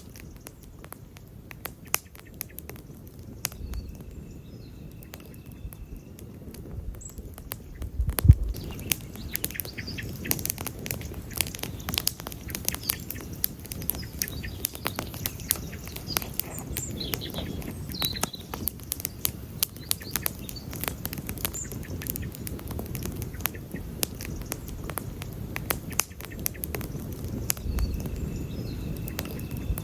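Wood campfire crackling and popping, with dense sharp snaps over the low rush of the flames. A louder low thump comes about eight seconds in, and the popping grows busier after it.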